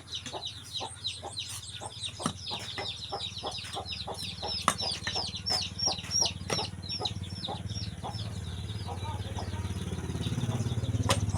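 Chickens: a rapid run of high, downward-sliding peeps, about three to four a second, fading out after about eight seconds. Under them is a low steady hum that grows louder near the end.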